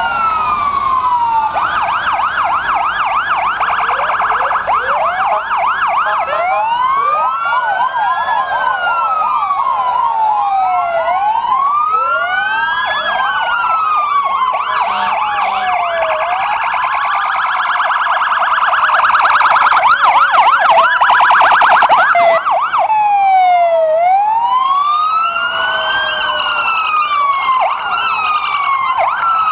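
Several emergency-vehicle sirens sounding at once. Slow wails rise and fall over a few seconds each, overlapped by fast yelping warbles, all at a steady loud level.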